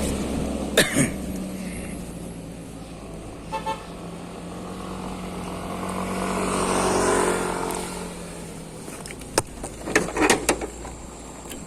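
An engine running steadily, its sound fading over the first few seconds and dying away later on, with a few sharp clicks or knocks about a second in and again near the end.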